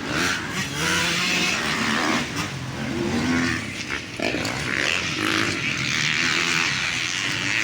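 Motocross dirt bike engines revving, their pitch rising and falling repeatedly as the bikes ride the track.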